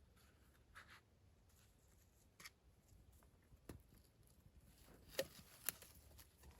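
Near silence broken by a few faint, scattered clicks and knocks, the two sharpest about five seconds in.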